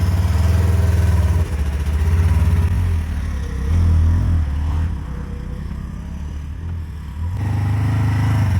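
Bobcat E60 compact excavator's diesel engine running as the machine travels. The engine note drops for a couple of seconds about five seconds in and picks up again near the end.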